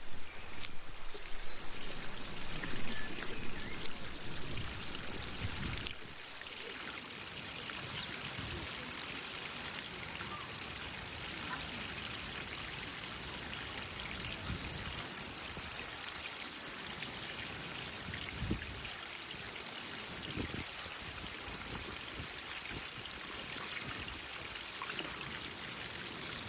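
Small stream of water trickling and flowing at a pond, a steady splashing hiss. It is louder with low rumbles for about the first six seconds, then drops and runs on quieter and even.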